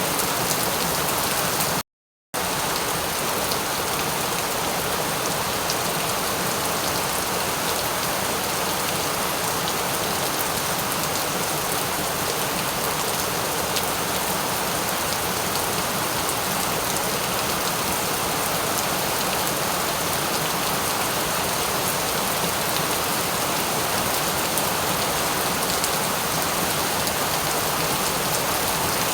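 Steady rain falling, with fine drop patter. The sound cuts out completely for about half a second about two seconds in, then resumes unchanged.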